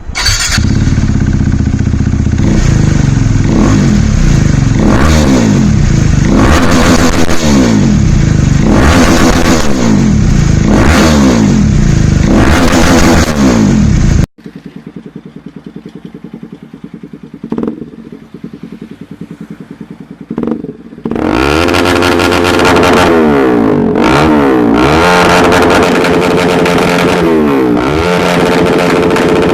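Motorcycle with a replica SC Project short slip-on exhaust and no dB killer, revved hard again and again while standing still. About halfway the sound cuts to a quieter idle with a couple of short blips, then loud repeated revving resumes near the end.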